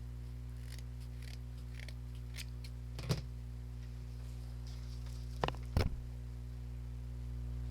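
Light rustling of jute twine being handled, with sharp clicks from scissors about three seconds in and twice more near six seconds, over a steady low electrical hum.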